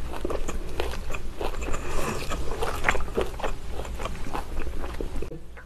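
Close-miked biting and chewing of grilled lamb rib meat, a quick run of small wet mouth clicks and tearing sounds that fade away near the end.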